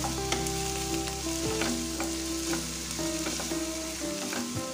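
Diced onion and green capsicum sizzling in butter in a non-stick frying pan, stirred with a wooden spatula that scrapes and taps against the pan many times.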